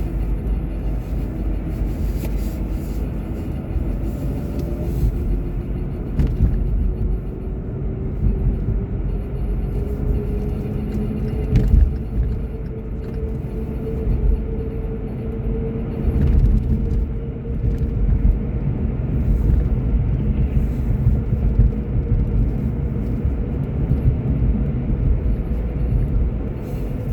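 Car driving, heard from inside the cabin: steady road and engine rumble, with a faint whine that rises slowly in pitch over the first half and then holds level. A couple of low thumps come near the middle.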